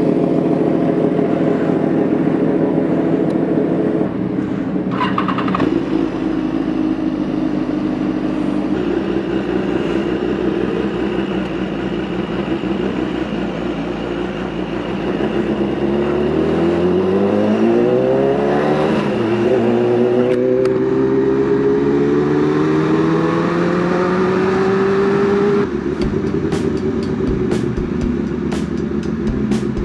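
Sport motorcycle's inline-four engine under way, its note steady at first, then rising as the bike accelerates about halfway through, dropping briefly at a gear change and climbing again in a long rise before easing off near the end.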